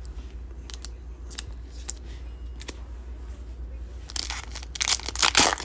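Light handling clicks, then about four seconds in a trading card pack's wrapper being torn open with loud crinkling rips.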